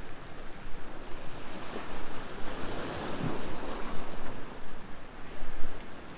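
Ocean waves washing onto the shore, one wave swelling and breaking near the middle. A campfire gives a few faint crackles.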